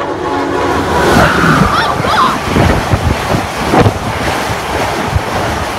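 An Amtrak Northeast Regional train passing at high speed. The locomotive's horn sounds and stops about a second in. Then comes a loud rush of air with the wheels clattering over the rail joints, and a couple of brief high squeals about two seconds in.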